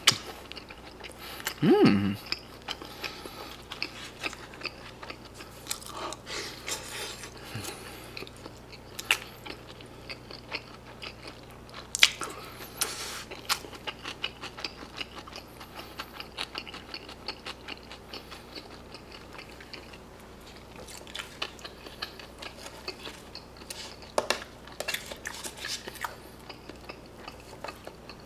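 A person chewing a mouthful of pizza-cheese pork cutlet close to the microphone, with many wet mouth clicks and smacks. There is a short hummed sound with falling pitch about two seconds in, and a few sharp clicks.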